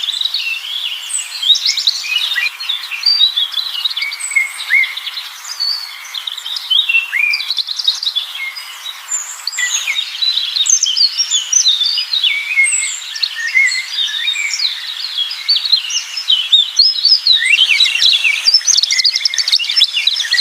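Many birds chirping and calling together: a dense chorus of short, high chirps and quick gliding notes, overlapping without a break.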